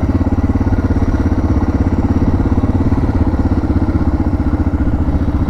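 Suzuki DR650's single-cylinder four-stroke engine running at low, steady revs, its quick even pulsing unchanged throughout.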